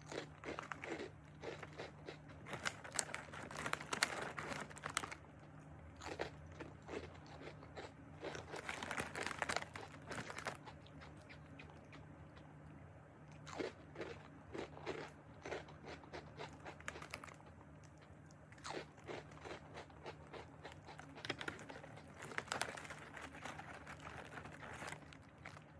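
Crisp nurungji (scorched rice) being bitten and chewed up close, in irregular runs of crunches with short pauses between them.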